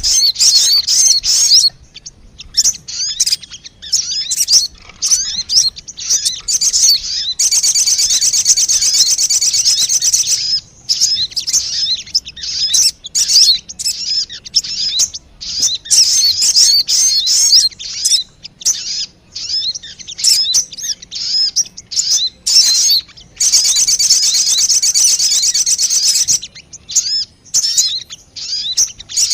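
Lure-call recording of the sogon bird: quick high chirps and short twittering phrases, broken by two long unbroken trills, one about seven seconds in and one about twenty-three seconds in.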